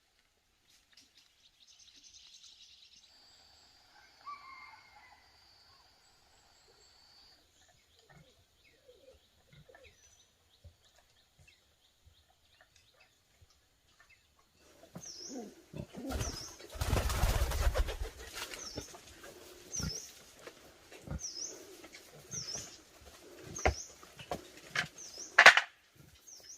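Mostly quiet at first, then about halfway in rustling and knocking begins, with a small bird giving one short high chirp about once a second and a brief loud rush of noise soon after.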